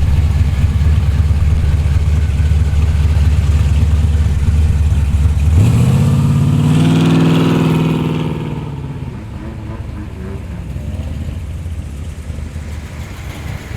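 A performance car's engine running close by with a deep, loud rumble. About six seconds in it is revved, the pitch climbing, then it pulls away and fades, leaving a quieter engine background.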